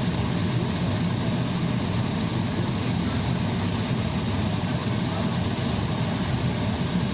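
Harley-Davidson police motorcycles idling steadily.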